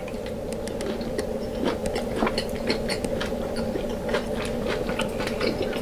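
Close-up mouth sounds of chewing deshelled seafood boil: irregular wet clicks and smacks, over a steady low background hum.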